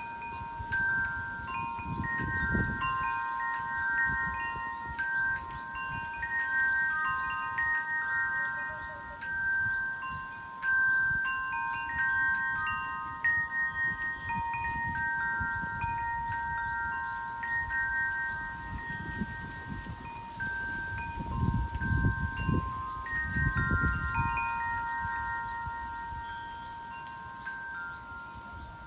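Wind chimes ringing on and off, several notes struck again and again and overlapping as they sway in the wind. Low gusts of wind rumble on the microphone about two seconds in and again for a few seconds past the middle.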